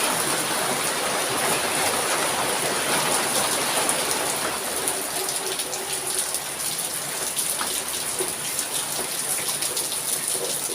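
Heavy rain falling steadily, a dense hiss with many sharp drop ticks, easing a little about halfway through.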